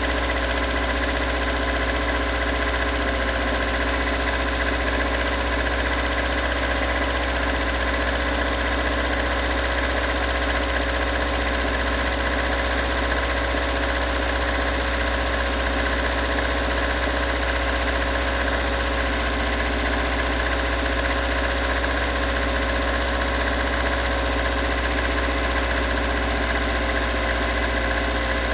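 Toyota AE86's 1.6-litre twin-cam 4A-GE four-cylinder engine idling steadily, with the rough idle and knocking sound whose cause the owner has not been able to locate.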